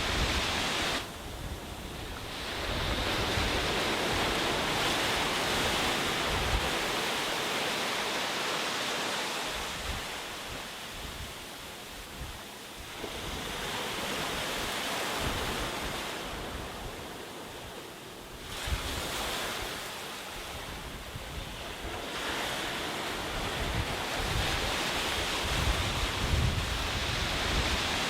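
Sea waves breaking and washing up a beach, the surf swelling and falling away every few seconds, with wind buffeting the microphone as a low rumble at the start and near the end.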